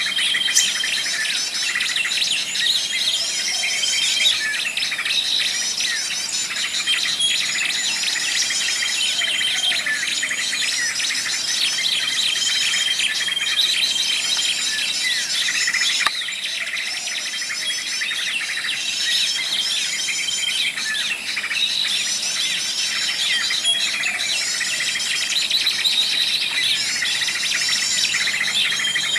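Many small songbirds chirping, trilling and whistling at once in a dense, continuous chorus, with short steady whistled notes recurring, and insects buzzing beneath.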